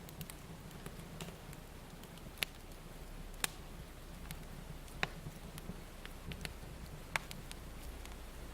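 Fire crackling: scattered sharp pops and snaps, four louder ones standing out, over a steady low rumble.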